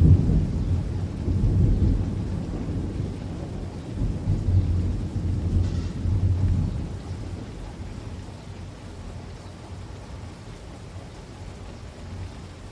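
Rolling thunder over steady rain: the rumble breaks in suddenly, swells again several times, and dies away after about seven seconds, leaving the hiss of the rain.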